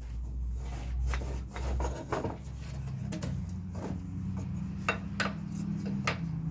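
Wooden boards being handled and swapped: scattered light knocks and clacks of wood on wood, with some rubbing and sliding, over a steady low hum.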